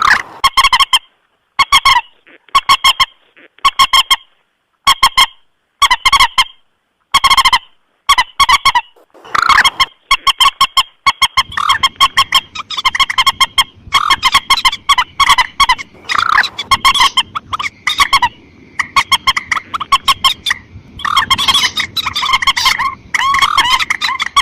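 Repeated calls of a mandar sawah, a rail, played as a bird-trapping lure recording: rapid strings of short, harsh, honking notes. For the first nine seconds they come in short bursts with brief silences between, then they run on almost without a break.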